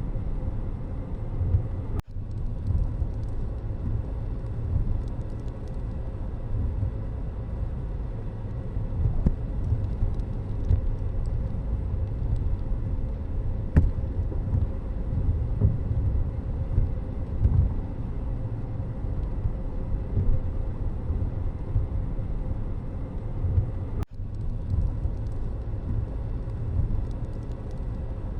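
Steady low rumble of road vehicle noise, broken by two brief dropouts, one about two seconds in and one a few seconds before the end.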